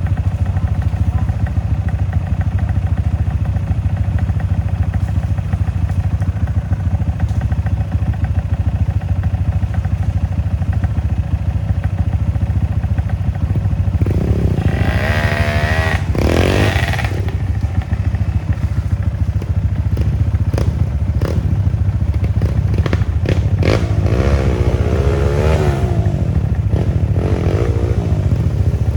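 Motorcycle engine running on a rough trail, its pitch climbing and falling as the throttle is worked about halfway through and again later, over a heavy steady rumble. Clattering knocks and thuds come through in the second half.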